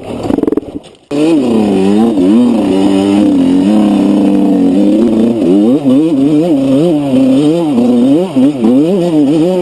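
Enduro motorcycle engine revving: after an abrupt cut about a second in, it holds a steady pitch for a few seconds, then rises and falls repeatedly as the throttle is worked.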